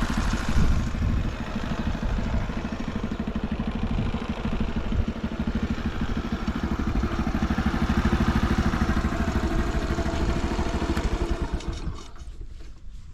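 Early Honda Motra's 50cc single-cylinder four-stroke engine idling steadily, running quietly with no abnormal noise. It cuts off near the end.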